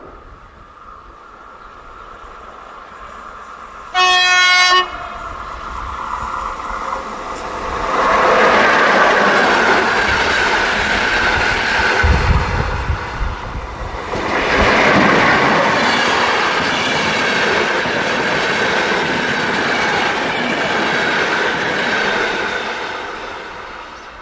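An electric locomotive's horn sounds one short, single-pitched blast about four seconds in. Then a passenger train rushes past at speed, with a loud rumble and the clatter of wheels on rail going on for many seconds and fading near the end.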